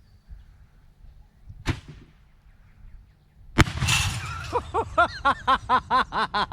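A firework mortar round: a sharp pop about a second and a half in, then near the middle a much louder blast with a crackling, noisy tail. After the blast comes a quick run of short rising-and-falling tones, about five a second.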